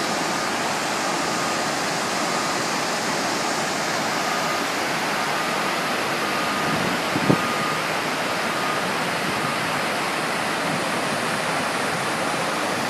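Steady rushing of water cascading down the walls of the 9/11 Memorial waterfall pools. A single short knock sounds about seven seconds in, and a faint, broken high tone comes and goes.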